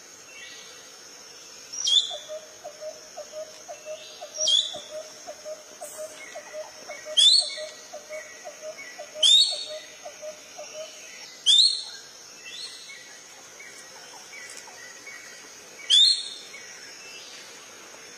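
Kingfisher calling: loud, sharp, downward-sweeping notes repeated every two seconds or so. A faint, fast ticking trill runs under the calls for the first part and stops a little past halfway.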